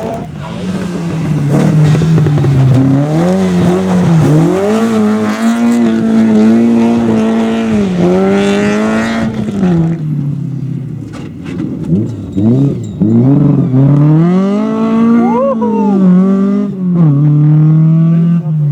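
Rally car engine revved hard, its pitch climbing and dropping again and again as the driver accelerates, lifts and shifts. Around two thirds of the way through, the revs break up in a few quick jabs before building again.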